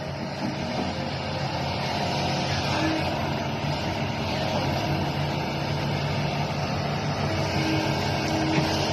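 Radio-controlled toy excavator's motor running steadily, a droning hum that builds over the first two seconds and then holds.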